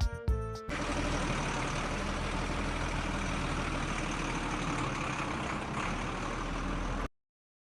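Small diesel engine running steadily with the homemade mini chaff cutter it drives, a constant mechanical hum. It cuts off suddenly near the end.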